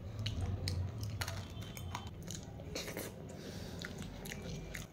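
A person chewing and biting crunchy food close to the microphone, with irregular crunches and mouth clicks that come thickest in the middle.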